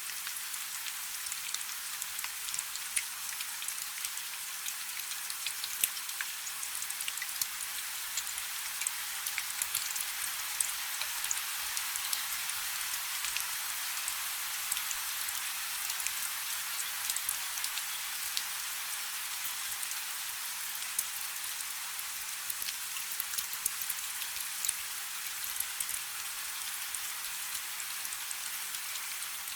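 Light rain falling steadily: a soft, even hiss with many individual drops ticking on a surface.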